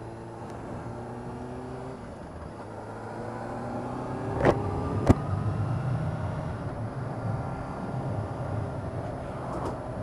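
Motorcycle engine running under way, steady at first, then rising in pitch and getting louder as the bike accelerates from about two seconds in. Two sharp clicks come a little before the middle.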